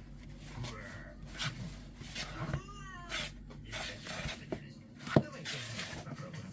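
A cat meowing once, a short rising-and-falling call about two and a half seconds in, over scattered clicks and rustling; a sharp knock about five seconds in is the loudest sound.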